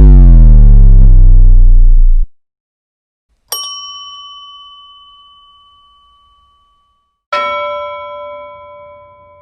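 A string of separate sound effects. A loud, deep tone slides down in pitch and cuts off about two seconds in. Then comes a bell-like ding that rings out, and about four seconds later a second, richer ding with more overtones, also ringing out.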